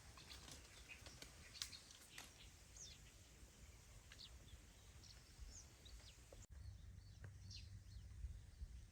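Faint short bird chirps, scattered irregularly over a quiet outdoor background.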